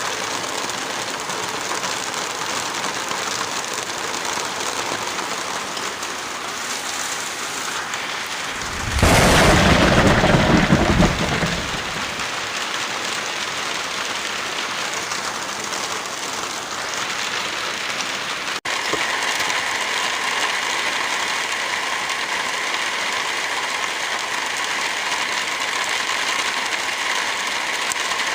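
Heavy rain falling steadily, with a louder deep rumble of thunder about nine seconds in that lasts two or three seconds. About two-thirds of the way through the sound drops out for an instant, and the rain goes on a little louder and brighter.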